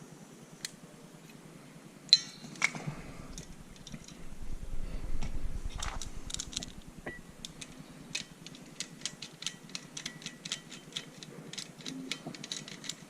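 Metal tools and pump parts being handled on a workbench: a sharp ringing metallic clink about two seconds in, a low rumble for a few seconds, then a run of small clicks and taps.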